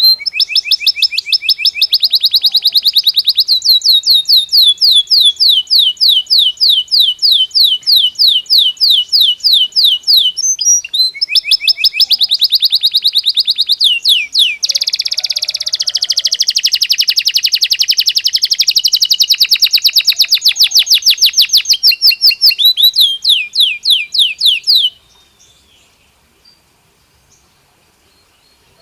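Belgian canary singing a long, unbroken song of high, fast trills: rapid runs of repeated notes that change from one roll to the next. The song stops about three-quarters of the way through, leaving only faint quiet.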